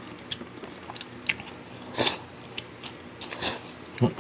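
Close-up eating sounds: chewing and lip smacks of someone eating bulalo beef shank soup meat, heard as irregular sharp wet clicks, two louder ones about two and three and a half seconds in.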